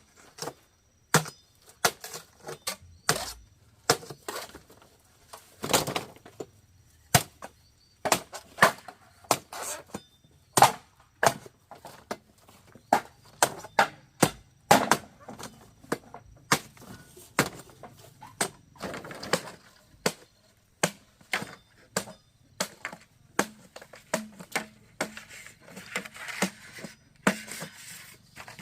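Hand tools striking wood again and again, irregular sharp knocks about one or two a second, with the odd cracking or splintering sound.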